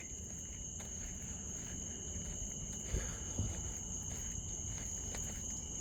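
Steady chorus of night insects, two unbroken high shrill tones, with a few soft footsteps on the trail about halfway through.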